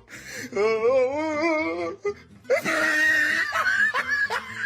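A high, wavering vocal cry, then loud, shrill laughing and shrieking.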